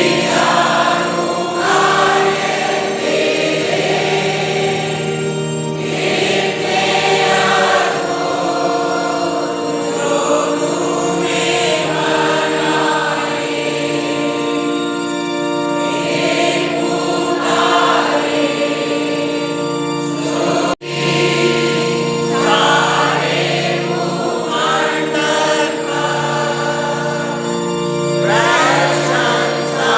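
A group of voices singing a Christian hymn in praise, over steady held accompanying notes. The sound drops out for an instant about 21 seconds in, then the singing carries on.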